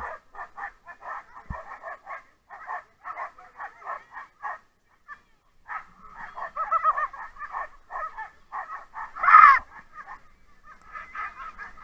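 Siberian huskies yelping and barking in rapid short calls, about three a second, with a brief pause midway and one much louder yelp about nine seconds in.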